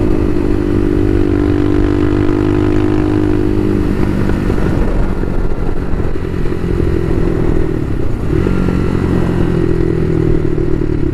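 Bashan Motomax 250 supermoto engine running at steady riding revs. About four seconds in the even note breaks up into a rougher sound for a few seconds, then steadies again.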